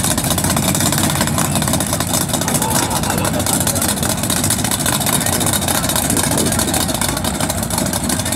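Drag-race car engine idling loudly and steadily, with no revving.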